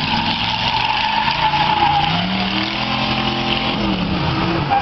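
Demolition derby car engines revving up and down while the tires spin and squeal on pavement. The squeal is strongest in the first two seconds.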